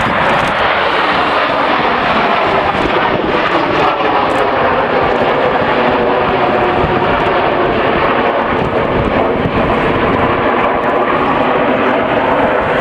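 Jet engines of the Red Arrows' BAE Hawk trainers, a loud steady jet noise as the formation flies past or takes off.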